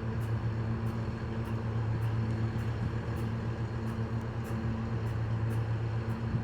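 Nippon Sharyo diesel multiple unit's diesel engine idling steadily at a low, even hum while the train stands in the station. Faint high ticks sound about twice a second over it.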